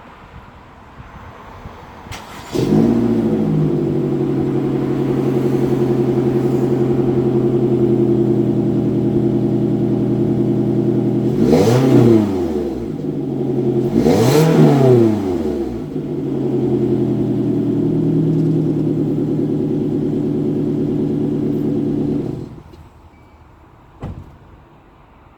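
Toyota Vellfire (early 30-series) running through a ROWEN aftermarket muffler. The engine starts about two and a half seconds in, settles to a steady idle, and is revved twice briefly around the middle. It is shut off near the end, followed by a single short click.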